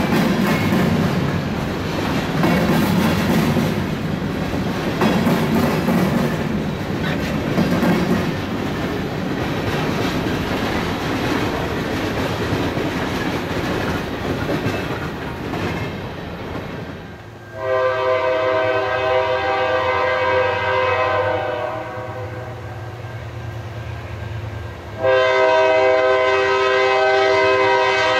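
Freight train's hopper cars rolling past with steady wheel noise and clicking over the rail joints, fading away after the train clears. Then a locomotive's multi-chime air horn sounds two long blasts, each a chord of several notes held for about four seconds.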